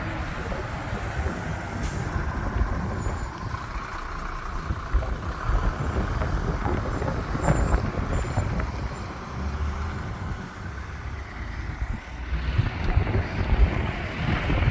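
Heavy trucks driving by with their diesel engines running, a deep steady engine sound with a single click about two seconds in.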